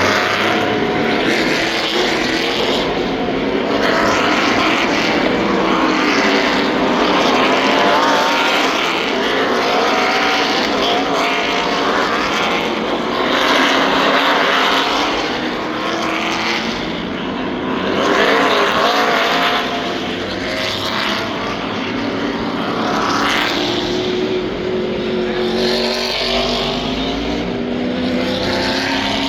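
NASCAR Truck Series race trucks going by in a stream, their V8 engines rising and falling in pitch as each one passes.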